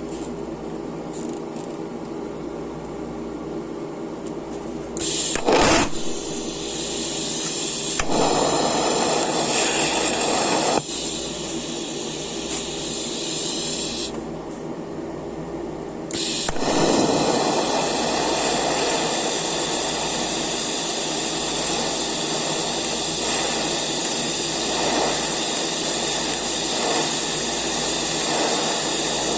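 Eastwood TIG 200 welder's TIG arc on steel with a steady electrical hum. The arc's hiss and buzz strike about five seconds in, run again from about eight to eleven seconds, and then carry on steadily from about sixteen seconds.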